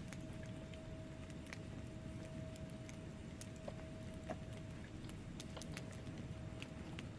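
Wood fire burning in a fireplace: irregular sharp crackles and pops from the logs over a steady low rumble of the flames, with a faint steady tone underneath.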